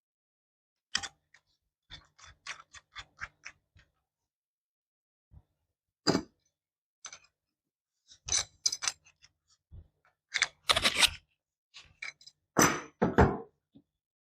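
Workshop handling noise: a quick run of even ticks, then louder clicks, knocks and clatter of hand tools and metal fittings being handled.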